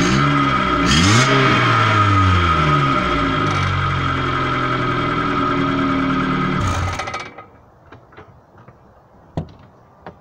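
Renault 1.2-litre 8-valve petrol engine heard through its exhaust, revs falling, blipped up once about a second in and dropping back, then running at a steady speed before stopping abruptly about seven seconds in. Afterwards a few faint clicks and one sharp knock.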